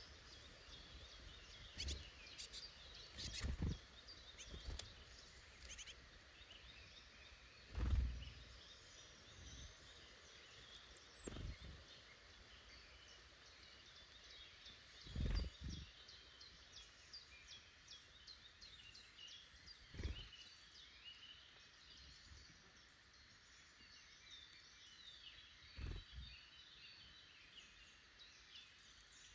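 Faint woodland songbird chorus: many small birds chirping and singing at once, without pause. About seven soft, dull thumps fall a few seconds apart through it.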